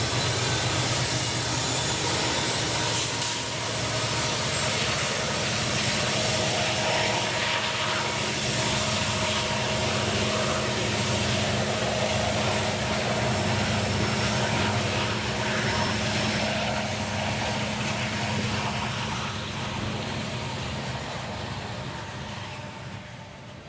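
Loaded coal hopper cars of a freight train rolling past, their steel wheels running on the rails in a steady, even noise that fades out near the end.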